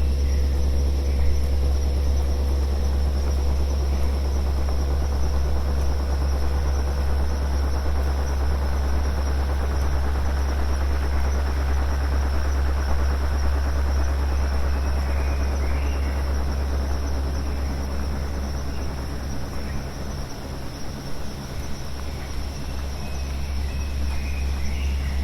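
Steady synthesized brown and pink noise from a modular synth, a deep even rumble with a hiss over it, mixed with a forest field recording. Faint bird chirps come in about two-thirds of the way through and again near the end, over a steady thin high hum.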